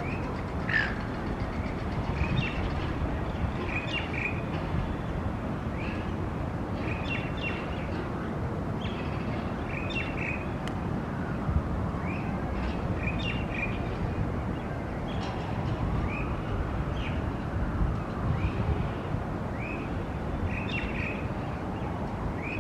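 Birds chirping in short, repeated calls, many in quick succession, over a steady low hum of city traffic.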